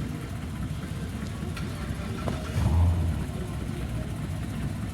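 American car's engine idling with a steady low rumble, with one brief louder low surge about halfway through.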